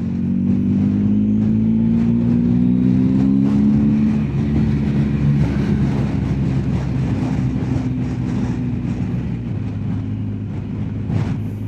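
BMW R1250GS Adventure's boxer-twin engine pulling, its pitch rising for about four seconds, then dropping and running steadily at cruise, over wind and road noise.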